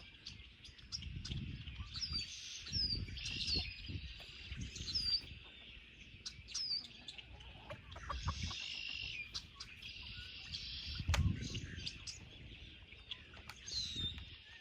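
Chickens clucking and small birds chirping in short, repeated calls, with low rustling and a few sharp knocks from eggs being gathered in the coop.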